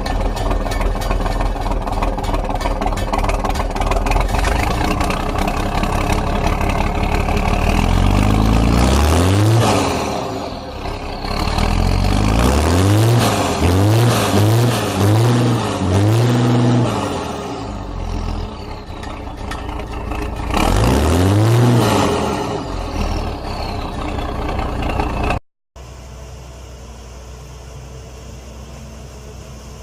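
Pulling tractor's engine running loud and being revved hard in repeated short bursts, its pitch climbing and dropping several times in quick succession. Near the end it cuts off abruptly to a quieter steady hum.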